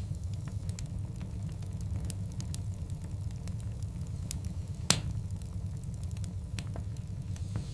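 Burning wood logs crackling, with many small snaps over a low steady rumble of the fire and one louder pop about five seconds in.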